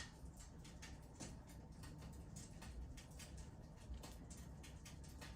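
Faint crackling of burning logs in a fireplace: irregular small pops and snaps, several a second, over a low hum.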